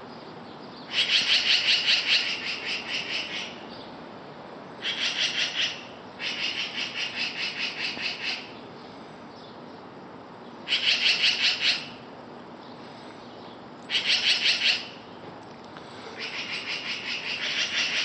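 Birds giving rapid rattling alarm calls, about ten notes a second, in six bouts of one to two and a half seconds each. They are nesting birds mobbing a cat near their nest.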